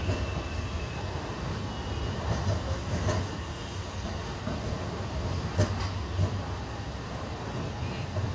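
Indian Railways passenger coach rolling slowly along a station platform, heard from its open doorway: a steady low rumble of the wheels on the rails, with a few sharp clicks, the loudest about five and a half seconds in.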